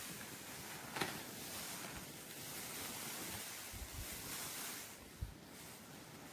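Blizzard wind blowing in a steady rush, with a low buffeting on the microphone. A short sharp click comes about a second in, and a few low thumps come later.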